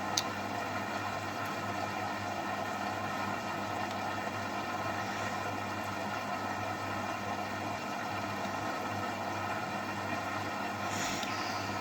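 AEG front-loading washing machine running with a steady motor hum, with a short click about a quarter second in and a brief hiss near the end.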